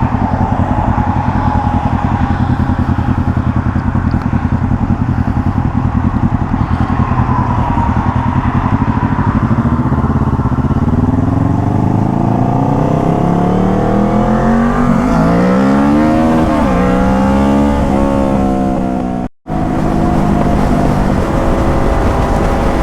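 Sport motorcycle engine heard from the rider's seat, running at a steady pitch for the first half, then revving up and dropping back several times in the second half as the bike accelerates. The sound cuts out completely for a moment about 19 seconds in.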